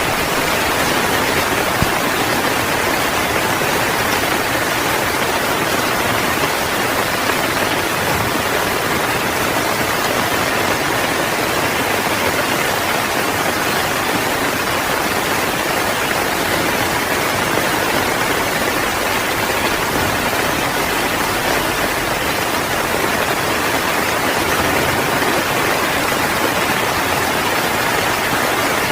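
Heavy rain falling steadily, a dense, even hiss without letup.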